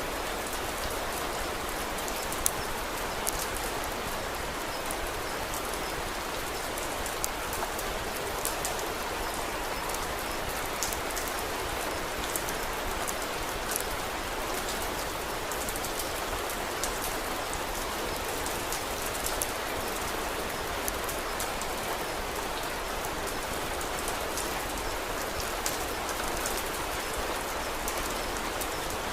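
Steady rain falling, with scattered sharp crackles of a wood fire in a fireplace.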